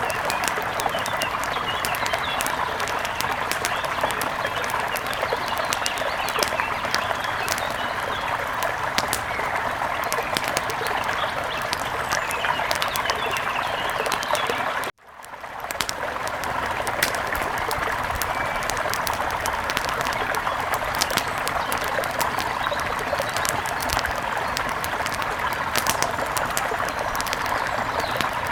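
Wood fire crackling with many sharp pops over a steady rushing noise. About halfway through, everything cuts out abruptly and fades back in within a second.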